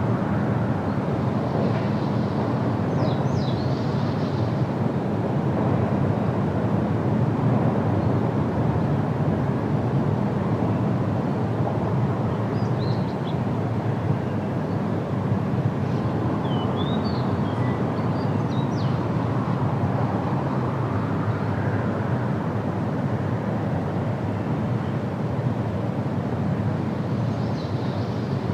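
A steady, low rushing background noise with a few faint, short high bird chirps scattered through it: a few seconds in, and again twice past the middle.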